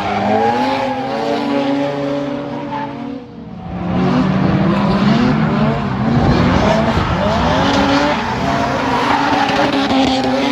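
Drift car engine revving up and down hard while its tyres squeal through a slide, easing briefly about three seconds in before picking up again.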